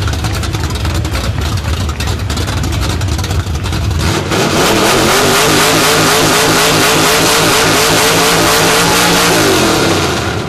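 Car engine running through open, uncapped exhaust headers: a rough idle, then about four seconds in the throttle is opened and the engine is held at high revs, wavering, for some five seconds before dropping back near the end.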